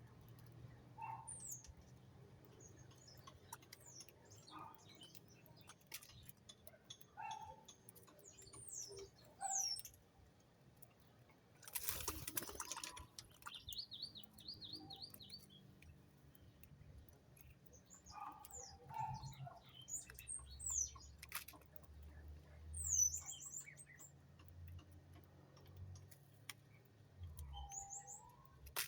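Small songbirds chirping with scattered short high calls, many sweeping downward, and a quick trill about halfway through. A brief rustling burst comes just before the trill, and small clicks and ticks sound throughout.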